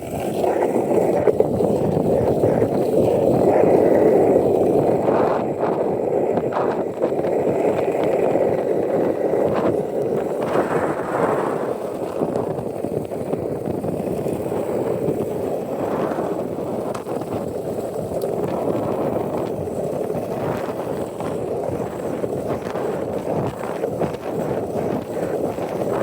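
Skateboard wheels rolling fast down a paved hill, a steady rolling noise with occasional short clicks. Wind buffets the phone's microphone.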